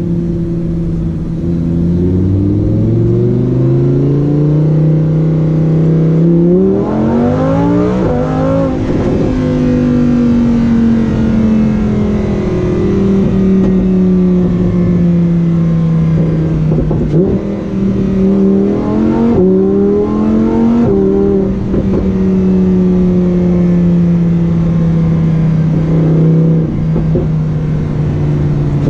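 Lamborghini Huracán Performante's V10 engine and exhaust running loud. The note climbs steadily for several seconds and breaks sharply about seven seconds in, like a gear change. It then holds a steady, slowly falling note, with a few quick jumps in pitch around the middle.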